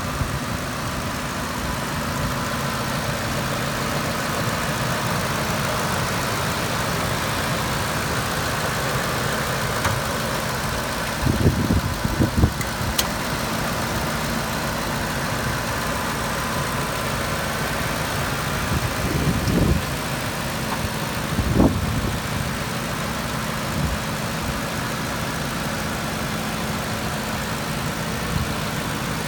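2005 Ford F-350 utility truck's engine idling steadily, with a few brief low thumps partway through and one sharp click.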